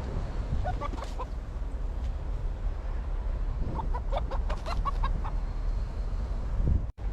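Chicken clucking in short strings of notes, a few about a second in and a longer run around four to five seconds in, over a steady low wind rumble. The sound cuts out briefly near the end.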